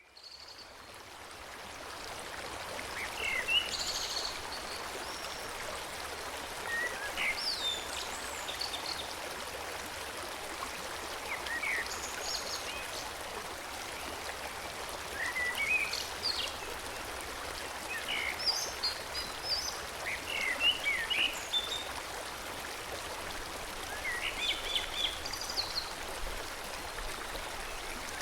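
Forest stream flowing with a steady rushing hiss, with birds singing short chirping phrases every few seconds over it. The water fades in over the first couple of seconds.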